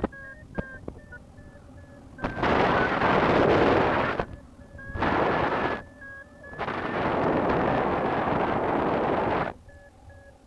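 Wind buffeting the microphone in loud gusts. In the lulls a paragliding variometer gives short, high beeps, its climb tone signalling strong lift.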